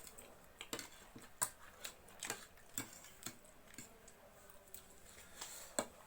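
Small sharp clicks and smacks of noodles being eaten, about ten scattered irregularly, the loudest about a second and a half in and another near the end.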